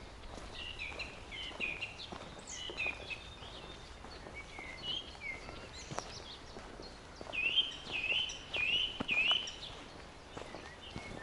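Several songbirds singing in a coniferous forest, one repeating the same short phrase three times in quick succession near the end, over the faint footsteps of a walker on the forest path.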